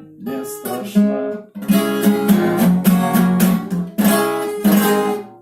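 Acoustic guitar strumming chords in a steady rhythm, the closing bars of a song's accompaniment.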